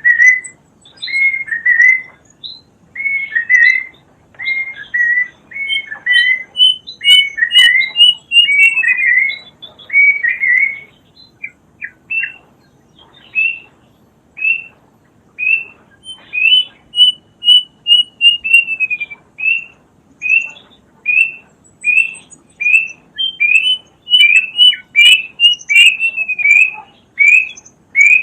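Kedasih cuckoo calling: a long series of short whistled notes about a second apart, with two runs of quicker notes that step down in pitch partway through.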